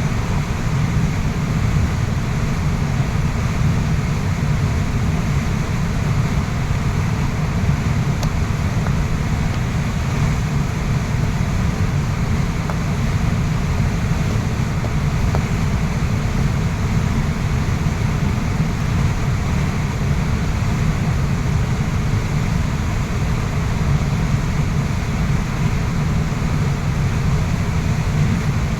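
Waterfall: a steady, unbroken rush of falling water, heaviest in its low rumble.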